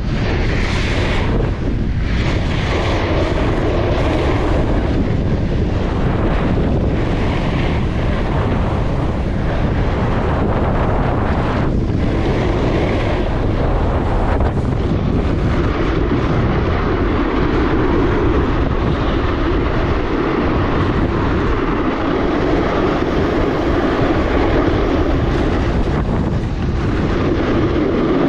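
Strong wind buffeting the camera's microphone: a loud, steady roar with a heavy low rumble.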